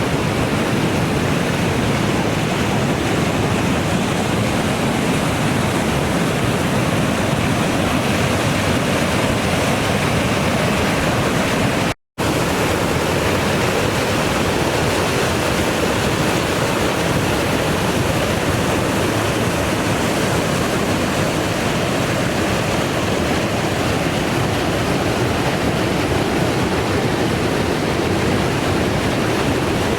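A river in flood rushing steadily and loudly, with a brief break about twelve seconds in.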